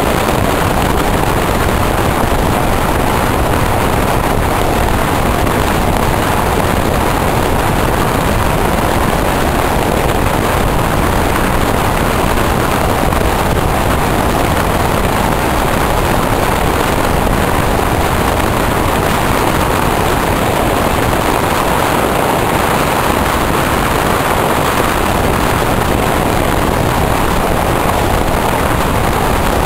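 Steady rushing noise of a passenger train running along the line, with wind from the open window blowing on the microphone.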